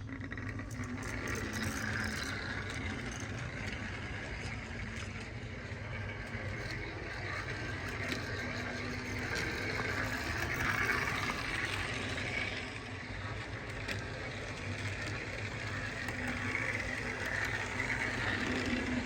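HO-scale model railcar running along the track, with a steady hum from its small electric motor, gears and wheels.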